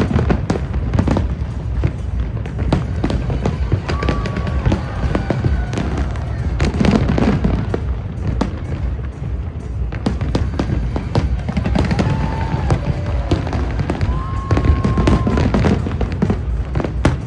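Fireworks display going off without a break: rapid sharp bangs and crackles over a steady low rumble, with music playing along.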